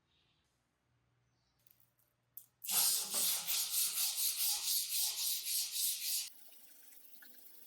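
Rapid back-and-forth abrasive rubbing strokes by hand, about four a second, on a part of an old hand plane being cleaned up. It starts sharply a little over two seconds in and stops abruptly about three and a half seconds later.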